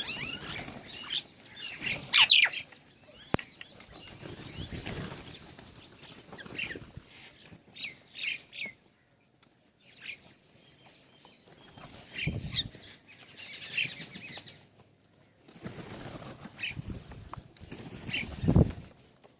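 Small birds feeding, with short scattered chirps and several bursts of wing flapping as they fly to and from the feeder.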